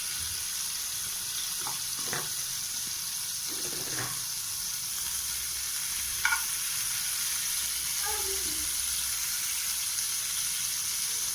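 Butter sizzling steadily as it melts in a hot pan. A few light knocks come through, the sharpest about six seconds in.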